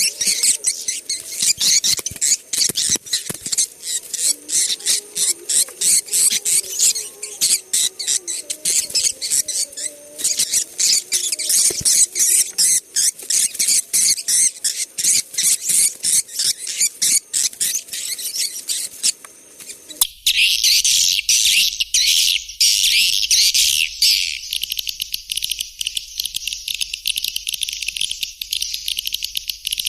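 Swiftlet lure-call recording of white-nest swiftlets: dense, rapid twittering chirps and clicks. About two-thirds of the way in it switches abruptly to a narrower, buzzier chirping over a low hum.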